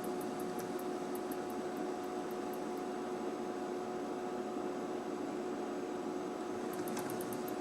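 Steady electric hum from a model railroad layout, with two short runs of light, rapid clicking, one near the start and one near the end.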